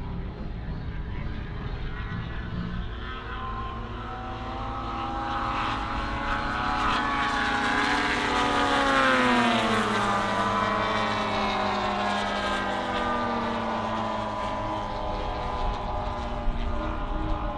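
Radio-controlled scale WW2 fighter model's piston engine and propeller on a flypast: the engine note grows louder to a peak about nine seconds in, then drops in pitch as the model passes and draws away.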